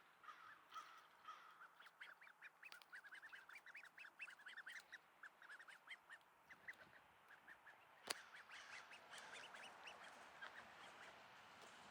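Faint, rapid string of short high peeping calls from a duckling trying to quack, its voice not yet a full adult quack. The calls thin out after about seven seconds, and a single sharp click comes about eight seconds in.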